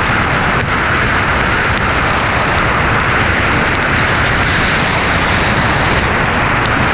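Heavy rain and the tyre noise of a car driving on a flooded, wet road blend into one loud, steady hiss.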